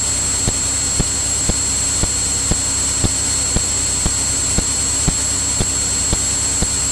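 Steady drone of a Cirrus single-engine piston airplane in flight, heard through the cockpit audio feed. A thin high whine and a regular click about twice a second run over it.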